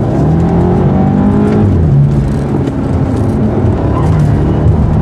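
BMW Alpina B6 Gran Coupe's twin-turbo V8 pulling hard on a track lap. The revs climb, drop about two seconds in, hold steady, then climb again near the end.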